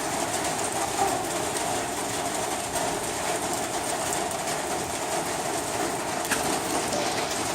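Rain pouring down steadily, a continuous even hiss.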